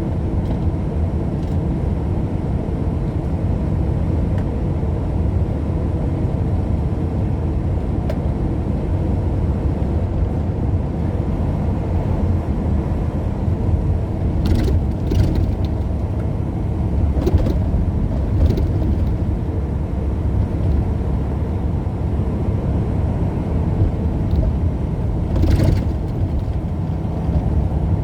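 Steady road and engine noise of a car driving at speed, a continuous low rumble. A few brief clicks or knocks come about halfway through and again near the end.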